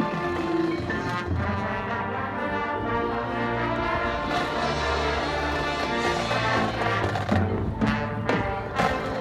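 High school marching band playing live: sustained brass chords with low brass and percussion, a few sharp percussion hits near the end.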